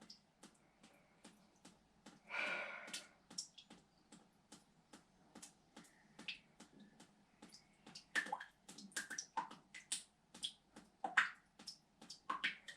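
Water from a leaking mains pipe dripping through the ceiling into a bucket, in quick, irregular drips several a second.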